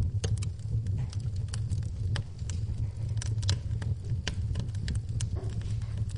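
Wood fire burning in a fireplace, crackling and popping: short, sharp cracks at irregular intervals over a steady low rumble.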